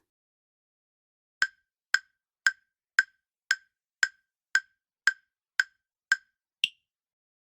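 Quiz countdown timer sound effect: short, sharp ticks about two a second, starting about a second and a half in, ten in all, followed by one higher-pitched tick.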